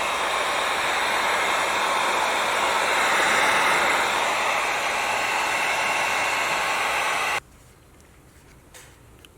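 Heat gun blowing steadily while shrinking heat-shrink tubing over a wire butt splice, switched off suddenly about seven seconds in.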